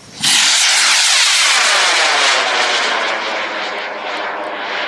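Model rocket motor igniting about a quarter second in and burning with a loud, steady hiss that sweeps in tone and slowly fades as the rocket climbs away.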